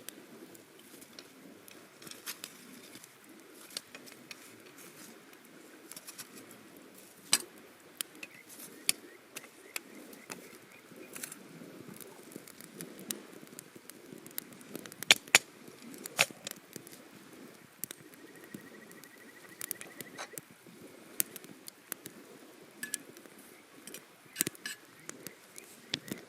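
Wood campfire crackling, with irregular sharp pops, a few of them loud, over a low steady hiss.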